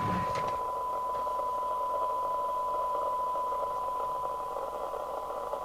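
A CB radio's speaker reproducing a steady 1 kHz test tone over hiss: the FM receiver is picking up a weak modulated test signal while its receive circuits are being aligned.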